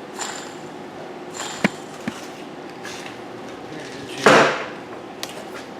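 Workshop handling noises: a few light clicks and knocks, and one louder noisy scrape or rustle lasting about half a second, about four seconds in.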